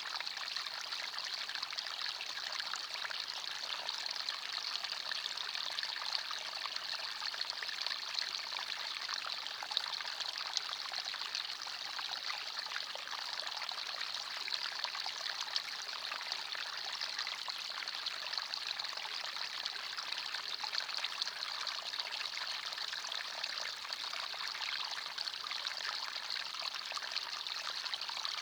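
A small forest stream running steadily over stones: an even rushing and trickling of water, brightest in the upper range, with fine splashing detail.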